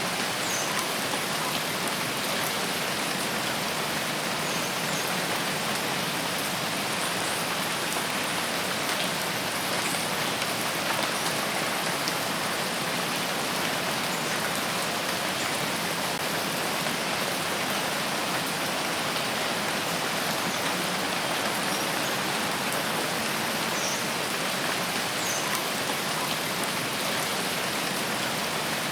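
Steady rain falling and pattering on foliage, an even hiss with a few faint high chirps now and then.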